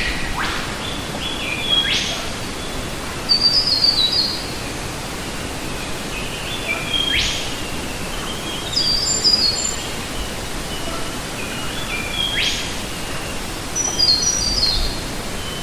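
A forest bird singing the same phrase three times, about every five seconds: a fast rising whistle followed by a few short falling notes. A steady hiss runs underneath.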